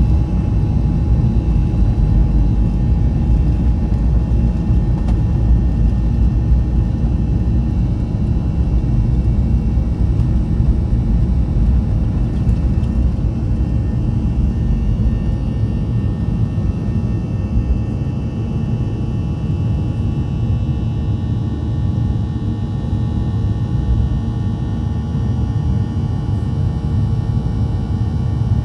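Boeing 737-900 cabin noise during departure, heard from a window seat: a loud, steady low rumble with the faint steady whine of its CFM56-7B jet engines above it. The deepest part of the rumble eases somewhat about halfway through.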